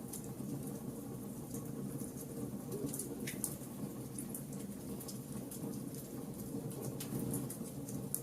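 Wood fire burning: a steady low rush of flames, with frequent sharp crackles and pops from the burning wood.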